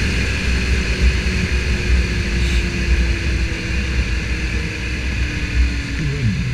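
Suzuki GSX-R750 inline-four engine running as the motorcycle rides along, its note slowly falling in pitch, under heavy wind rumble on the helmet camera.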